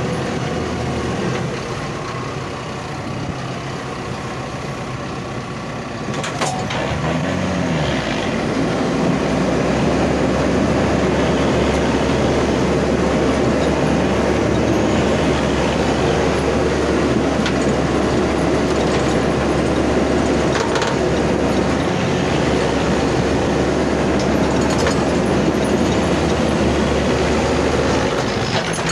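Leyland truck's diesel engine running under load, getting louder about a third of the way in and staying there, as it labours in mud.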